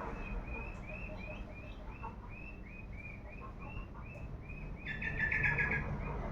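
A bird singing a steady series of short chirps, about three a second, breaking into a quick rattling trill near the end.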